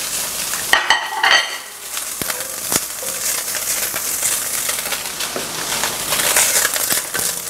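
Chopped salted fish and garlic sizzling in hot oil in an enamelled cast-iron pan, stirred with a wooden spoon that scrapes and taps the pan. There are a few sharper clinks about a second in.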